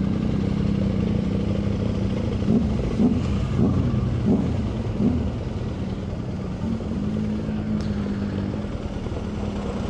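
Motorcycle engine running steadily at low road speed, with a few quick rises and falls in pitch between about two and five seconds in.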